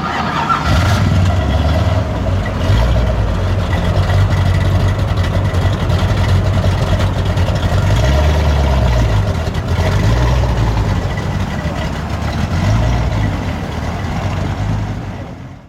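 Large car engine, typical of a V8 muscle car, running at low revs with a deep rumble, the revs rising and falling a few times in the middle. The sound cuts off suddenly at the end.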